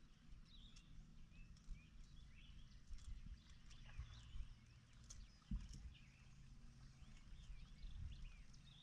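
Faint songbird chirps over a low steady rumble, with one soft thump about five and a half seconds in.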